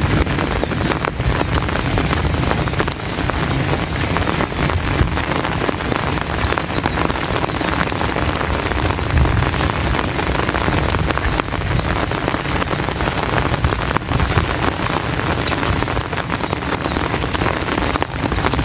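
Heavy rain pouring steadily, drumming close overhead on an umbrella with a dense patter of drops.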